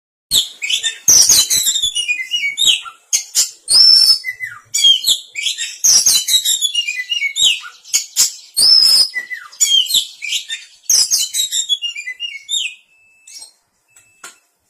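Oriental magpie-robin (kacer) singing a loud, fast, unbroken stream of varied whistles, chirps and rasping notes, its calling song. The song breaks off about 13 seconds in, leaving a few scattered notes.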